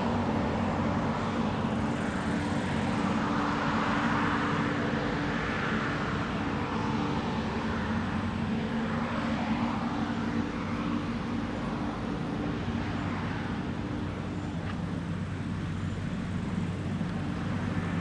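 Diesel engine of large harvest machinery running steadily at an even pitch, under a constant broad mechanical noise.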